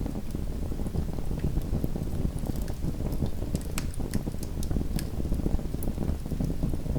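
A small wood fire in a fireplace crackling over a steady low rumble of flame, with scattered sharp pops and snaps, most of them in the middle.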